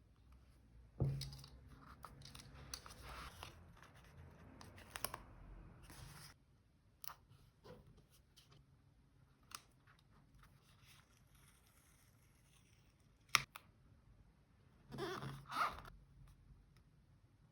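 Paper and stationery handled on a desk for journal decorating. There is close rustling and crinkling for the first several seconds, then scattered light taps and clicks, one sharp click, and a short burst of rustling near the end.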